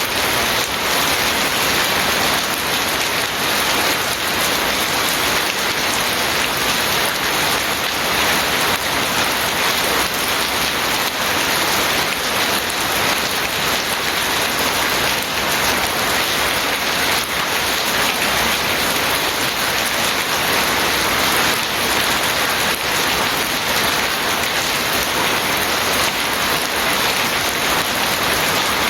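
Steady rain falling, an even, unbroken hiss that neither builds nor eases.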